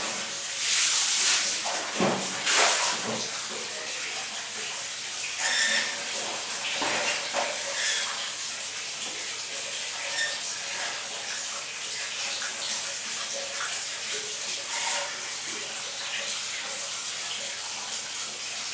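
Water running and splashing, with several louder surges in the first eight seconds, then a steadier flow.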